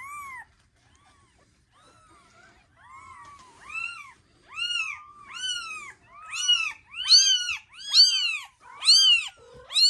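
Newborn kitten mewing: thin, high-pitched cries, each rising and falling in pitch. They start faint a few seconds in and grow louder and quicker, about two a second near the end.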